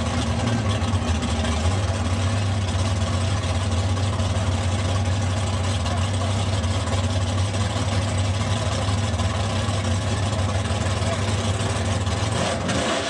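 Drag-race Fox-body Ford Mustang's engine idling steadily, a loud, even low rumble with no revving.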